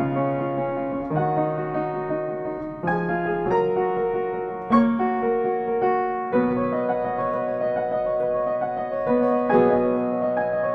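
Slow instrumental piano music: held chords that change every second or two.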